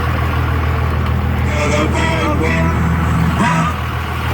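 5.9 Cummins inline-six turbodiesel idling steadily through a 5-inch straight pipe, an even low drone.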